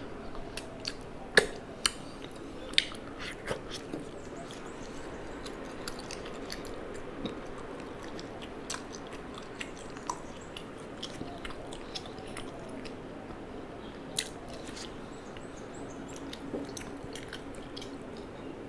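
A person chewing and biting food close to the microphone, with sharp crunchy clicks now and then; the loudest click comes about a second and a half in.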